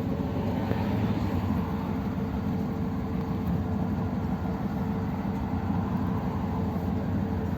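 Steady engine and running noise of an old Ford Thunderbird, heard from inside its cabin.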